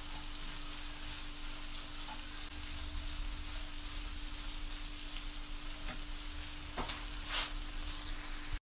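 Chicken breast pieces with peppers and spring onions sizzling in a non-stick frying pan while a spatula stirs them. A steady hiss with a faint low hum underneath and a couple of sharp clicks of the spatula on the pan near the end, before the sound cuts off suddenly.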